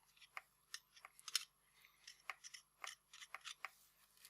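Light, irregular clicks and scrapes from hand work on a car's anti-roll bar link ball joint and its tools while it is being greased, about a dozen short ticks with the sharpest about a second and a half in.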